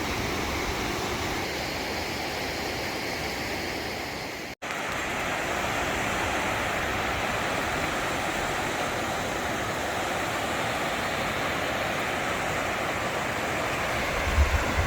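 Steady rush of fast-flowing river water over rocks, cutting out for an instant about four and a half seconds in and then running on unchanged.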